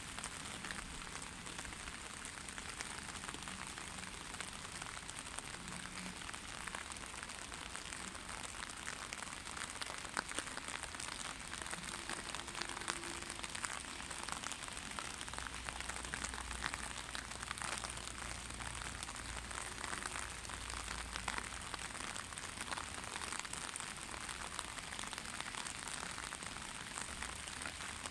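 Steady rain falling, a constant hiss thick with the ticks of individual drops striking surfaces. A low rumble rises in the middle and fades again.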